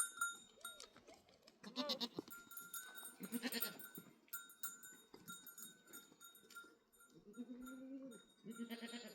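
Herd animals bleating about four times, the longest call coming shortly before the end, while small livestock bells ring and clink on and off.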